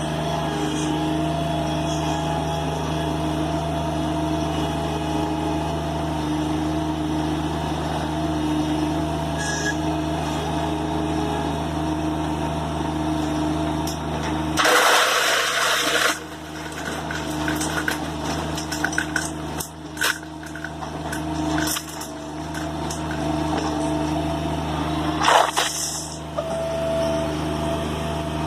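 An engine running steadily, with two loud rushing bursts of noise, one about halfway through lasting a second and a half and a shorter one near the end.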